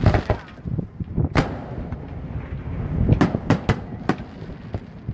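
Aerial fireworks shells bursting: a sharp bang about a second and a half in, then a quick run of four bangs between about three and four seconds, over a steady low rumble.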